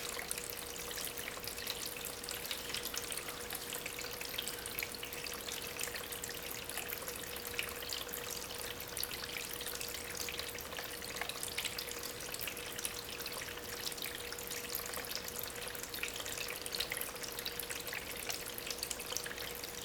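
Water trickling and splashing over stones in a small homemade waterfall fed by a small aquarium pump. It makes a steady patter of droplets with a faint steady hum underneath.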